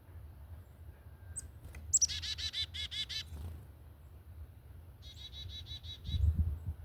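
Northern cardinal singing: two phrases of quickly repeated slurred whistled notes, the first about two seconds in after a sharp chip, the second near the end. A brief low thump comes near the end.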